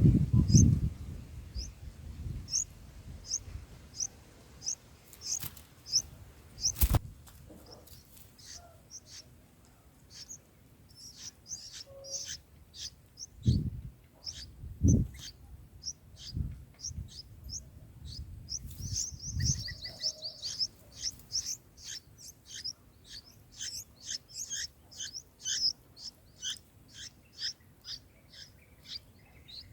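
Small birds chirping: short high notes repeated about twice a second, growing denser and busier in the second half. A few dull low thumps come near the middle.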